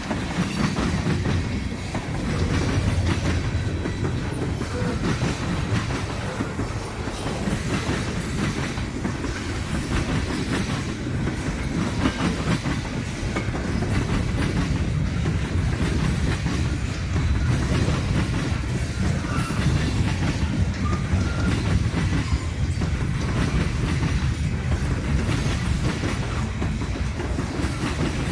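Train passing, railcars rolling by with a steady rumble and wheels clacking over the rail joints.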